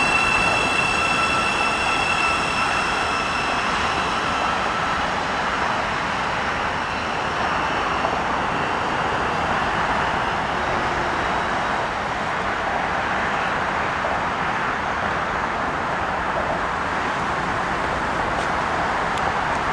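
Thameslink Class 700 electric multiple unit pulling out of the station. A steady high-pitched whine with several tones fades out in the first few seconds, leaving the continuous rumble of the train running on the rails.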